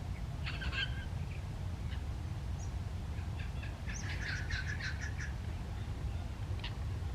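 Wild songbirds calling and singing: a short chattering phrase about half a second in, a longer chattering song from about three to five seconds in, and a single short note near the end. A steady low rumble runs underneath.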